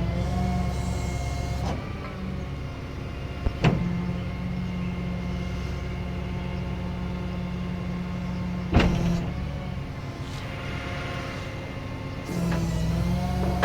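Rollback tow truck's bed hydraulics running, a steady motor whine that shifts in pitch about two seconds in and again near the end, with two sharp metallic clunks about three and a half and nine seconds in.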